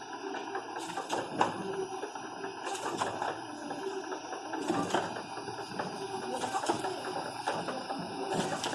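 Automatic labeling machine running: a steady mechanical whir with a sharp click every couple of seconds.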